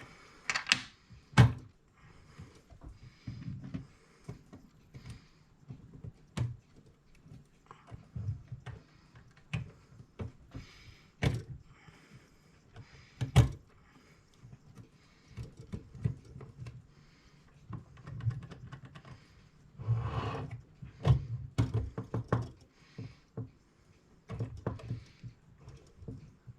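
Parts of a mechanical clock movement being handled and fitted together: scattered small clicks, taps and knocks. There are two sharper knocks, one about a second in and one about halfway through, and a busier run of handling noise a little after that.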